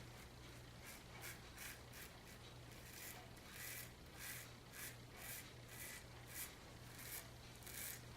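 Faint, short scraping strokes of a double-edge safety razor cutting lathered stubble, about two a second.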